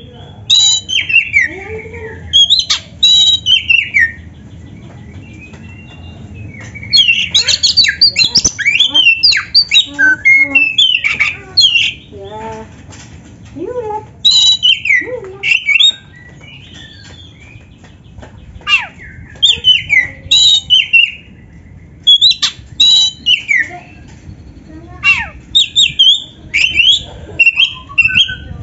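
Black-breasted oriental magpie-robin (kacer) singing in bursts of fast whistles, glides and harsh chatter laced with canary-like phrases, with short pauses between the bursts.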